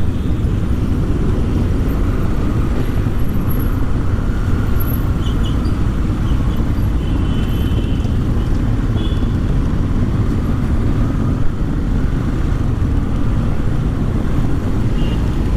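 Motorcycle riding in slow city traffic, heard from the rider's camera: a steady low rumble of engine and road noise. A few faint short high tones sound in the middle.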